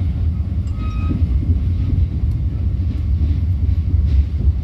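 Passenger train running along the line: a steady low rumble that does not let up.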